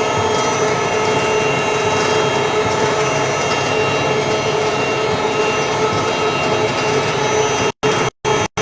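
Concrete floor grinder running steadily, a constant grinding noise with a steady whine over it. Near the end the sound starts cutting out and back in several times in quick succession.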